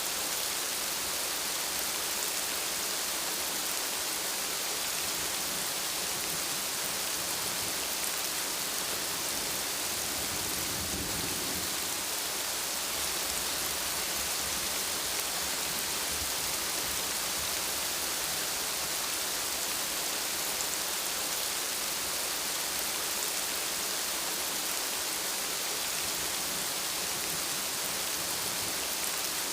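Steady, even rain falling hard on a surface, a constant hiss. A faint low rumble swells briefly about a third of the way in.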